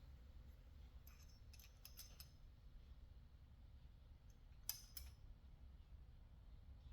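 Near silence with a low hum, broken by a few faint small clicks and clinks; the loudest pair comes about five seconds in.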